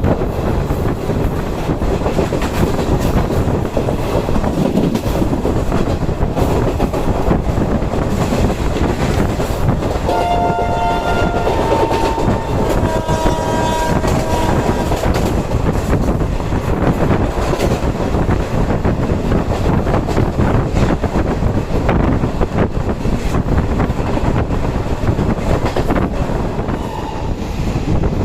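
An Indian passenger train running over the rails, with a steady loud rumble and rattle of the coaches. About ten seconds in, a train horn sounds for roughly four seconds, changing pitch partway through.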